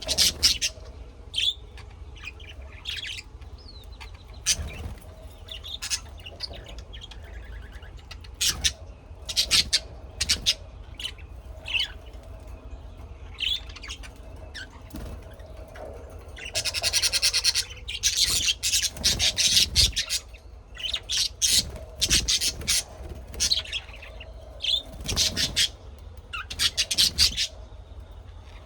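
Birds chirping and calling: many short, sharp chirps throughout, with a longer buzzy, rattling call a little past halfway. A steady low hum runs underneath.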